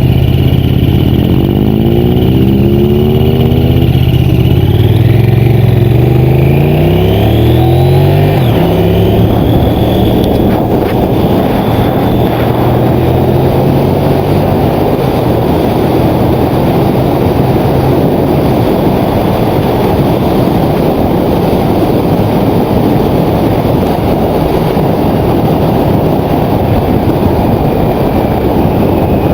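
Motorcycle engine accelerating through several gears, its pitch climbing and dropping back at each shift, then giving way to a loud steady wind rush as the bike runs at speed.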